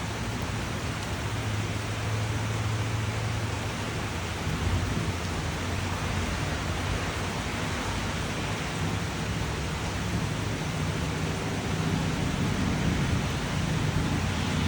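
Steady rain, a dense even hiss, with a low rumble underneath that grows louder in the last few seconds.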